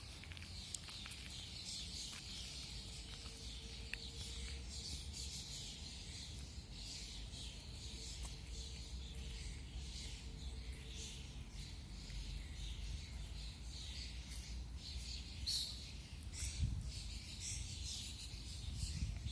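Many small songbirds chirping and calling at once in a steady dawn chorus of short, high notes, with a low steady rumble underneath. A couple of louder calls stand out near the end.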